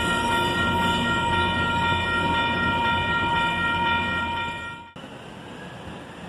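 Coaster commuter train rumbling past, with a steady high tone held over the rumble. Both cut off abruptly about five seconds in, leaving a quieter background.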